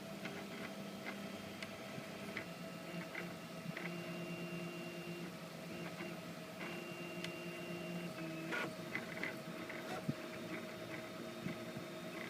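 Prusa i3 3D printer printing: its stepper motors whine in short runs at shifting pitches as the head moves, over a steady hum, with scattered light ticks.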